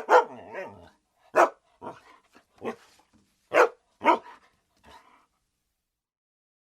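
Labrador barking: a run of single, sharp barks spaced roughly half a second to a second apart, some louder and some softer, stopping about five seconds in.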